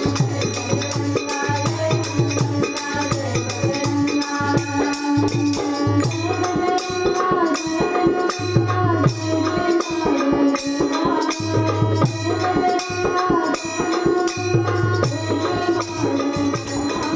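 Marathi bhajan music played by the group: held melodic tones over a steady drum beat and continuous jingling of small cymbals, with no clear words sung.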